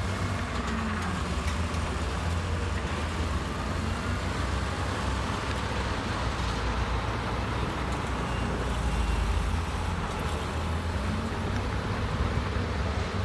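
Heavy diesel engine of earthmoving machinery running steadily as a continuous low drone, with no sharp impacts.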